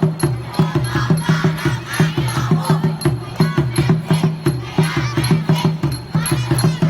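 A cheering squad chanting and shouting together over a quick, steady drumbeat.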